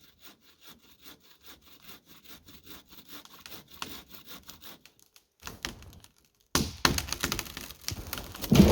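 Bow saw cutting through a dry tree trunk in quick, even strokes. About two-thirds of the way in, it gives way to louder knocking and cracking of wood.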